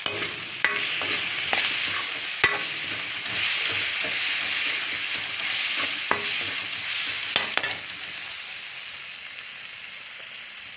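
Onion, tomato and spice masala sizzling in hot oil in a pan while being stirred, with a few sharp knocks of the spoon against the pan. This is the stage where the masala is frying until it turns red, just before the meat goes in.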